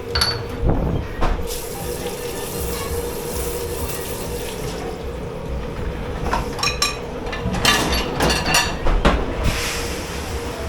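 Water running in a dish-pit sink, over a steady hum. A run of dishes knocking and clinking together starts about two-thirds of the way through.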